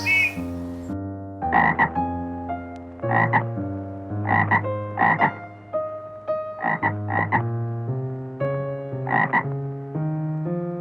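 A frog croaking in short, rough calls, about seven of them spaced a second or so apart, over soft background music of held notes.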